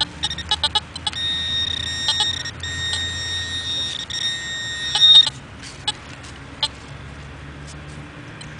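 Metal detector's audio signalling a target: a quick run of short beeps, then a steady high-pitched tone held for about four seconds that cuts off suddenly. The target reads 77 to 80, which could mean a bottle cap or a shallow dime.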